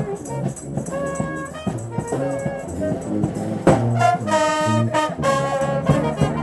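Brass band playing jazz-style music, with trombone and trumpet sounding. A loud held chord comes a little past halfway.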